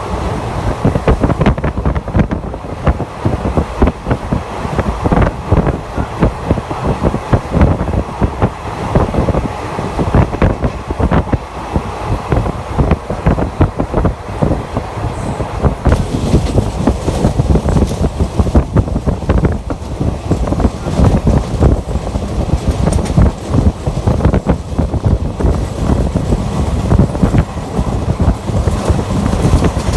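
Express passenger train running at speed, heard from on board: a loud, steady rumble of wheels on the track with rapid, irregular knocks and rattles.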